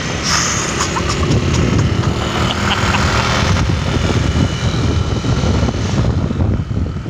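Motor vehicle running on the road: a steady low engine rumble with road noise.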